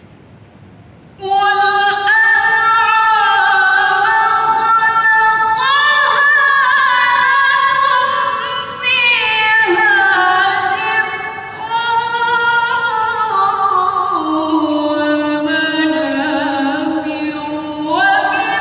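A woman reciting the Qur'an in melodic tilawah style, drawing out long ornamented notes. The voice comes in about a second in and steps down in pitch through the later part before rising again near the end.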